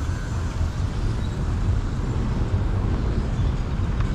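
Steady noise of a moving vehicle on the road: an even low rumble with a hiss over it.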